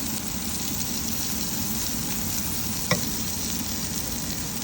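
Chicken livers sizzling steadily as they fry in a pan, with a single sharp knock about three seconds in.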